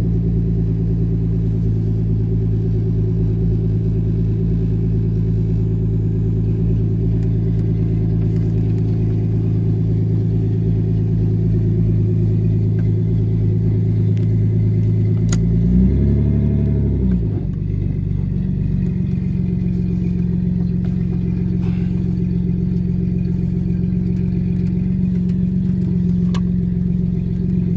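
Nissan RB20 straight-six with no exhaust fitted, blowing straight out of the open downpipe, idling loud and steady. About sixteen seconds in it gets one short rev that rises and drops back to idle.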